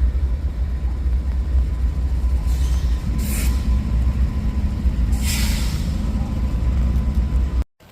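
Diesel freight locomotive running with a loud, steady deep rumble, broken by two short blasts of air hiss from the train's air brakes, about three and five seconds in. The sound cuts off suddenly near the end.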